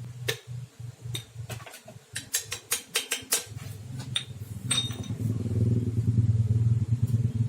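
A series of sharp metallic clicks and knocks over a low engine hum that comes and goes. About halfway through, the engine rumble grows louder and steadier.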